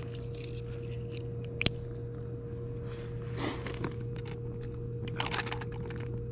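Soft rustling and scraping of fishing tackle being handled, with one sharp click about a second and a half in, over a steady low hum.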